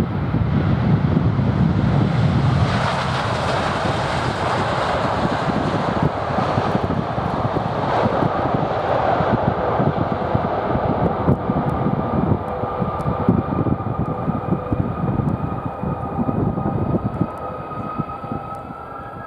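Boeing 787-9 jet engines during landing: a broad roar for the first ten seconds or so, then a steady turbine whine of several tones that slowly fall in pitch as the engines spool down.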